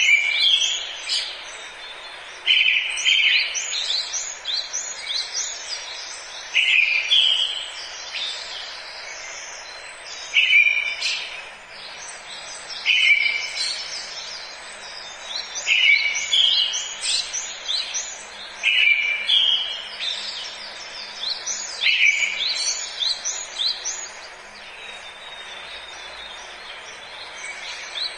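Forest birds singing: one bird repeats a short song phrase every few seconds, while others chirp in quick high notes around it, over a faint steady hiss.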